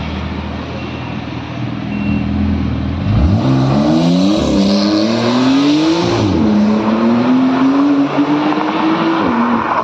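Car engine running low and steady, then accelerating hard from about three seconds in, its pitch climbing and dropping back at two gear changes before rising again and easing off near the end.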